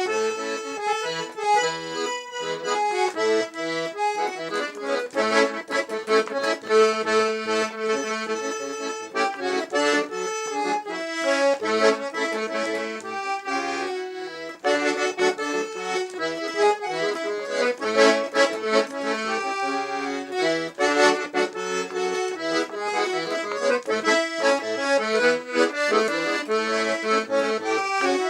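Accordion playing a lively traditional tune without singing, quick successions of held notes and chords.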